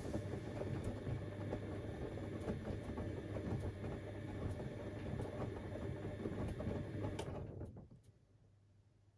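Siemens Extraklasse XLs 140 A front-loading washing machine in its wash phase: the motor turns the drum with a steady low hum and the laundry tumbles, then the drum stops about eight seconds in.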